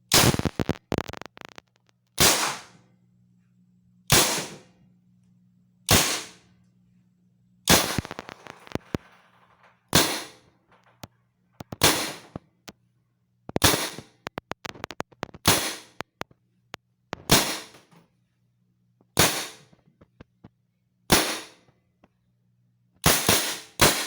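Mag-fed Tippmann paintball marker with a Blizzard conversion firing round balls at a target. It fires one sharp shot about every two seconds, then a quick run of several shots near the end.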